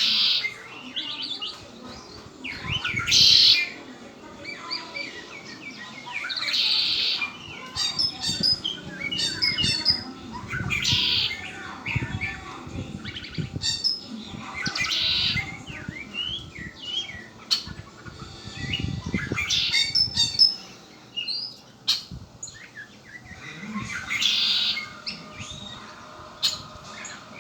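Red-winged blackbird singing its buzzy trilling song over and over, a burst about every four seconds, with short sharp call notes between the songs.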